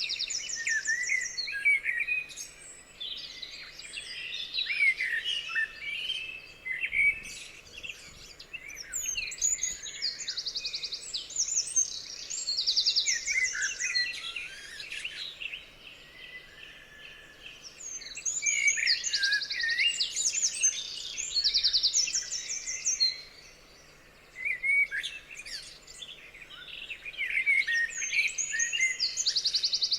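Songbirds singing together: overlapping chirps, whistled phrases and fast high trills that come and go in waves, with a couple of brief lulls.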